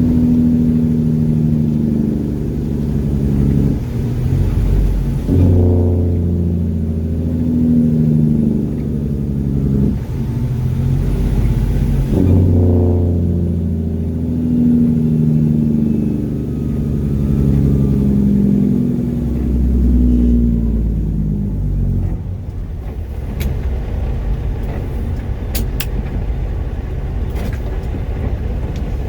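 Mack truck's diesel engine pulling through the gears. Its pitch climbs and then drops at each shift, several times over. About three quarters through it eases off to a lower, steady run, with a few sharp clicks near the end.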